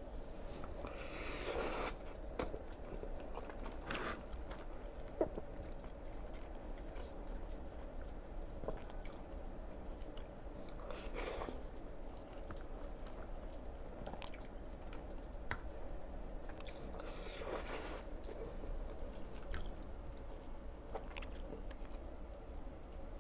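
Close-miked chewing of Nongshim Chapagetti black-bean instant noodles, with three longer noisy passes about 1, 11 and 17 seconds in and scattered light clicks between them.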